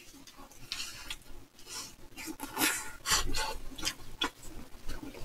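People chewing mouthfuls of soft strawberry chiffon cake and whipped cream: a scatter of soft, wet mouth sounds with no speech.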